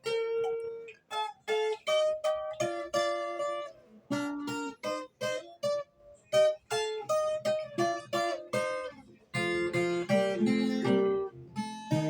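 Viola caipira playing an instrumental break: a picked melody of single and paired notes, turning to fuller strummed chords about nine seconds in.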